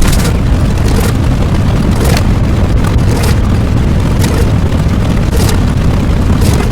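Loud, continuous booming rumble with a few sharp cracks scattered through it.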